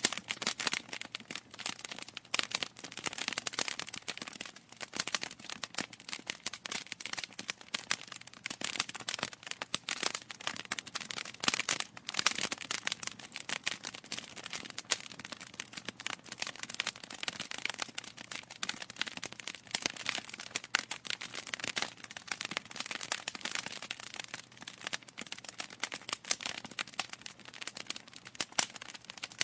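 Wood fire burning in a fireplace, crackling steadily with many quick irregular pops and snaps.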